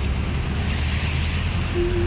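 Vehicle driving on a wet road in the rain: a steady low rumble with a hiss of rain and spray. A tune starts near the end.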